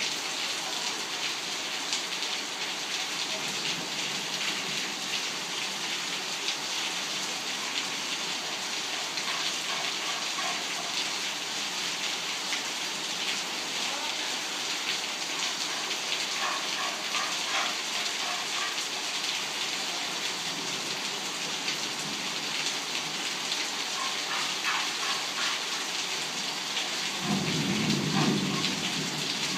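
Torrential rain pouring steadily, a dense hiss of drops beating on the ground and water. Near the end a low rumble of thunder swells for about two seconds.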